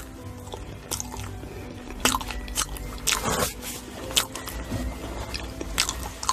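Close-miked chewing of fresh fruit: crisp crunching bites and wet mouth clicks, with a longer crunch about three seconds in.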